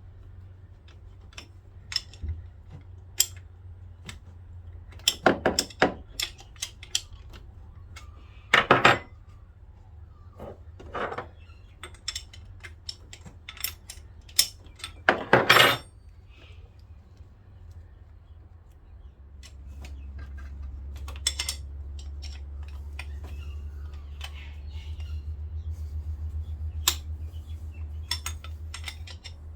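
Metal hand tools clinking and knocking against a marine diesel engine as the starter motor is unbolted, with several short, louder metallic rattles. A steady low hum comes in about two-thirds of the way through.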